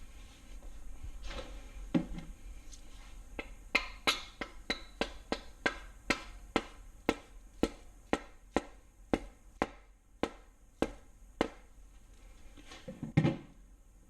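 A main bearing cap on an LS engine block being tapped down over its main studs with a mallet: about twenty sharp taps, roughly two a second, slowing a little toward the end, then a duller thump near the end.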